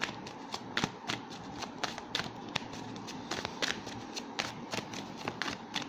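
A deck of tarot cards being shuffled and handled by hand: a steady run of irregular crisp card snaps, several a second.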